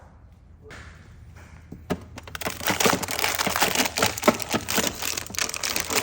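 Plastic food packaging crinkling and crackling as items are rummaged through and handled, a dense run of sharp crackles starting about two seconds in.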